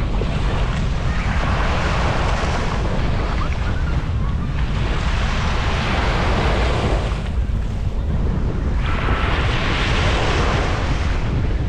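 Sea waves breaking and washing up a beach, the surf hiss swelling about every four seconds. Wind on the microphone adds a steady low rumble underneath.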